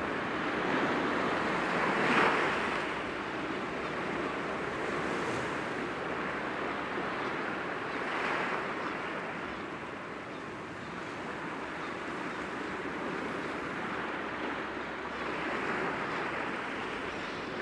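Sea waves washing gently against rocks, a continuous surf with three slow surges. The first surge, about two seconds in, is the loudest.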